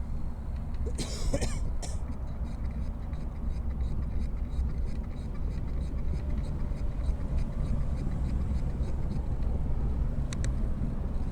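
Steady low rumble of wind and road noise from a bicycle ride, with faint regular ticking. A short high squeak about a second in and another brief high sound near the end.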